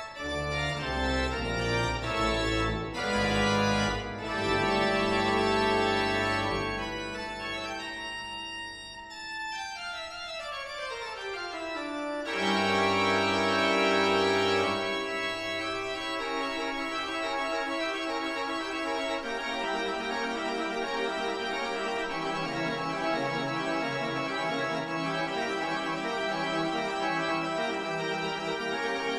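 Background music on an organ-like keyboard, holding sustained chords; a long sweep falls steadily in pitch about eight to twelve seconds in before the chords resume.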